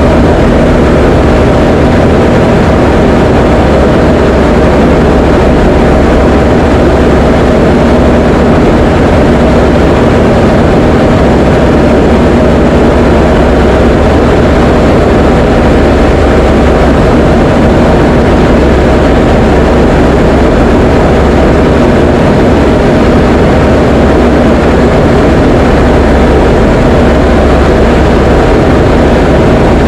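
Diamond DA20 light aircraft's piston engine and propeller droning steadily in flight, loud and unchanging.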